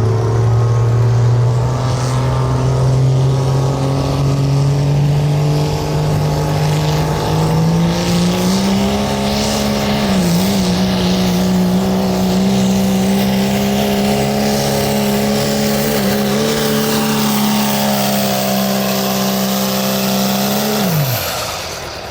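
2.6 pro street diesel pickup engine at full throttle pulling a sled. The pitch climbs over the first several seconds and holds high with a brief dip about ten seconds in. It drops sharply as the throttle comes off near the end of the pull.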